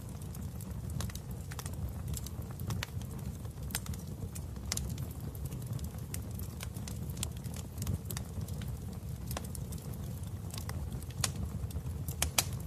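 Wood fire in a fireplace crackling: irregular sharp pops over a steady low rumble of flames, with a few louder pops near the end.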